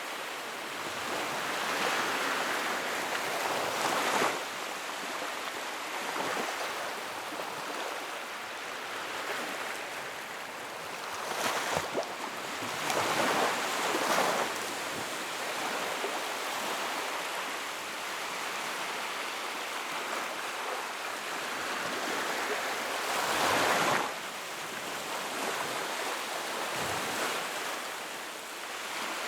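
Wood fire burning in a fireplace: a steady rushing hiss that swells and eases several times, with a few sharp crackles.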